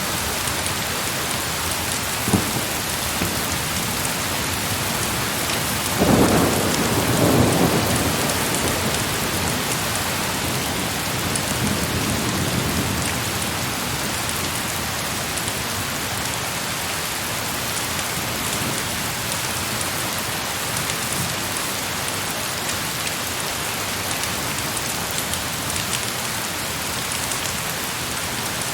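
Heavy rain falling steadily, with a roll of thunder about six seconds in that swells for a couple of seconds and then dies away.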